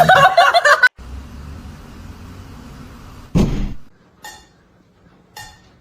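A brief loud vocal sound, then a single heavy thump about three and a half seconds in, followed by a few faint light clinks.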